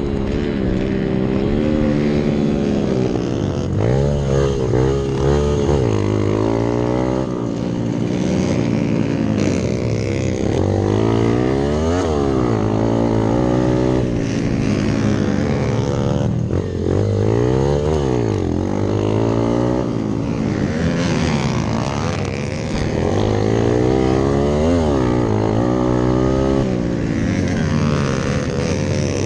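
Hero Impulse dirt bike's single-cylinder engine ridden hard, its pitch repeatedly rising and dropping every second or two as the rider works the throttle and shifts gears.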